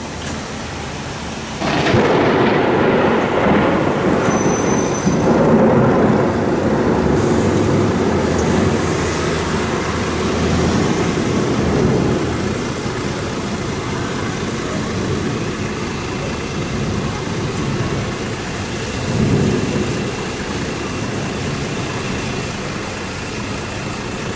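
Thunder crashes in suddenly about two seconds in and rumbles for around ten seconds, slowly fading, over steady rain. A second, shorter roll of thunder comes near the end.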